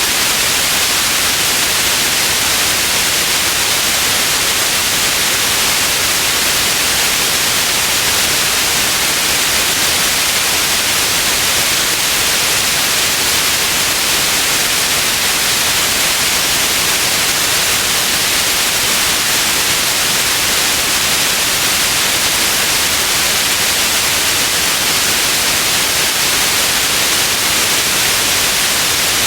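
Steady white noise: a constant, even hiss, brightest in the high end, with no change.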